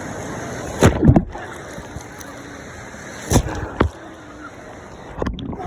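Water splashing and sloshing over a steady wash, with a couple of sharper splashes about a second in and again a little after three seconds.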